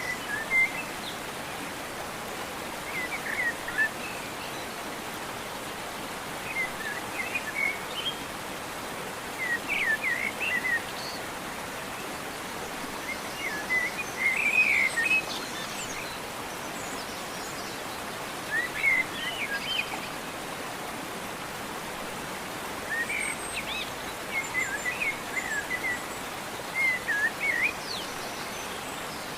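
Songbirds singing short warbling chirp phrases every three to four seconds over a steady background hiss.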